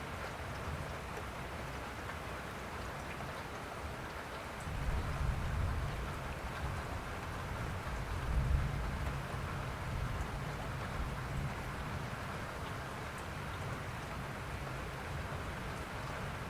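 Steady rainfall, an even hiss of drops. A low rumble swells in about four and a half seconds in, peaks midway and lingers faintly.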